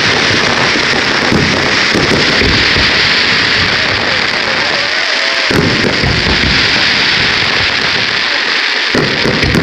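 Fireworks display: continuous crackling and fizzing of sparks with a rapid, irregular run of low booms from launches and bursts, loud throughout.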